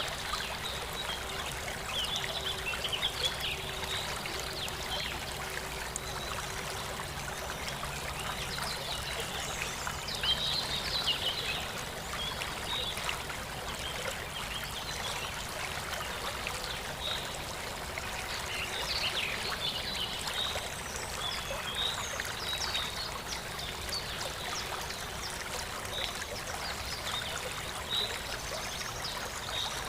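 Running water trickling and splashing steadily, with many small splashes, over a faint low hum.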